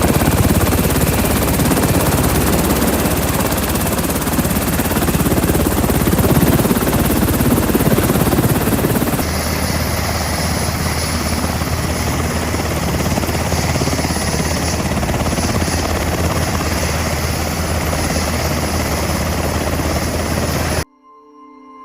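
Helicopter rotor and turbine noise at close range. It changes character abruptly about nine seconds in, at a cut between shots, and cuts off suddenly near the end.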